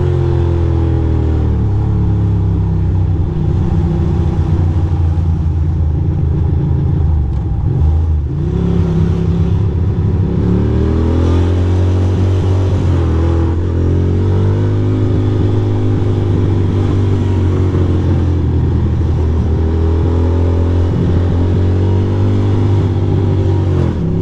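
Ducati Monster 620's air-cooled L-twin engine running under way, its pitch rising and falling several times as the bike accelerates and eases off through the gears.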